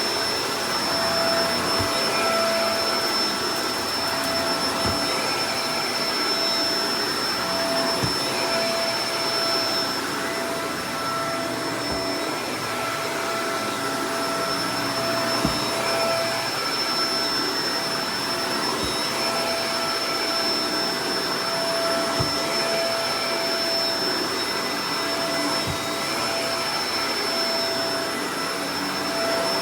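Shark Professional Powered Lift-Away DLX (NV586) upright vacuum running steadily: a constant rush of air with a steady whine over it, and a few light knocks.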